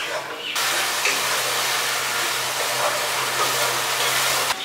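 Masala paste frying in oil in a kadai while stirred with a spatula: a steady sizzling hiss with a faint low hum beneath, starting abruptly about half a second in and cutting off suddenly just before the end.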